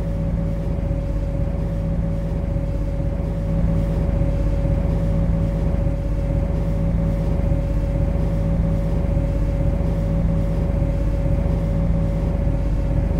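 MTR C-Train standing at a platform with its equipment running: a steady electrical hum, two constant tones over a low drone, unchanging throughout.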